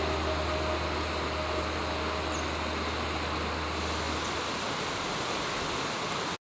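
Steady rush of a rain-swollen river pouring over a weir, with background music fading out over the first four seconds. The sound cuts off abruptly near the end.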